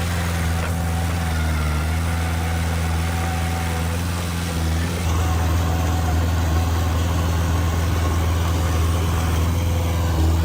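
Heavy diesel engine of earthmoving machinery running steadily with a low, even drone. It dips briefly about four and a half seconds in, then runs a little louder.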